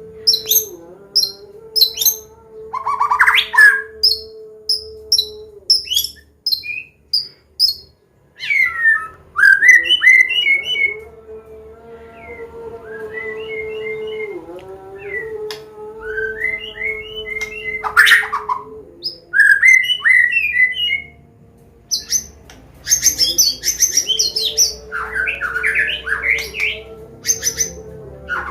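White-rumped shama (Medan murai batu) singing its varied combination song: quick runs of short, high repeated notes alternating with clear, sweeping whistled phrases. A steady low hum runs underneath.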